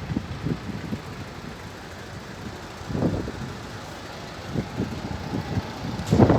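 Strong sandstorm wind buffeting the microphone in irregular gusts over a steady hiss, with a louder gust about three seconds in and a strong one near the end.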